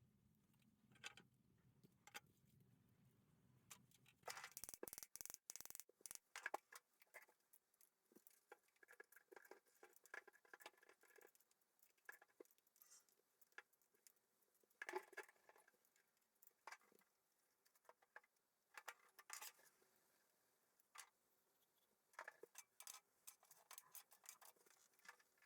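Faint, irregular clicks, taps and short scrapes of small hard parts being handled, with a quick cluster of clicks a few seconds in.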